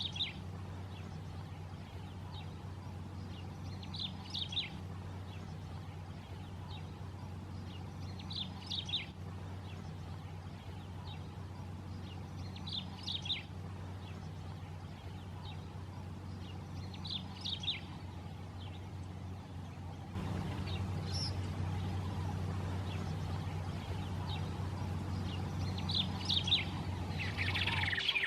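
White-rumped tanager singing, a short phrase repeated about every four to five seconds, with a steady low hum behind it.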